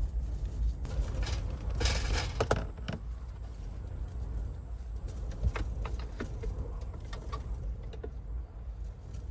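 Strong wind buffeting the parked car, heard from inside the cabin as a steady low rumble. Rustling and small clicks of things being handled, thickest about one to three seconds in, with scattered clicks later.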